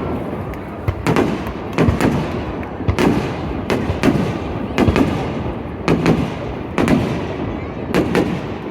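Aerial fireworks bursting, a sharp bang about once a second with crackling and rumbling echoes between them.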